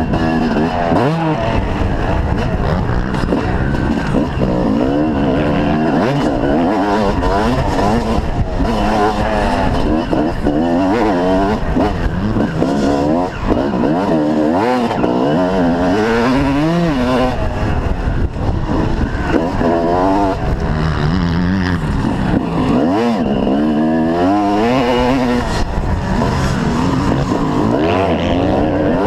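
Motocross bike engines at racing revs, several overlapping, each rising and falling in pitch as the riders open and close the throttle and shift gears.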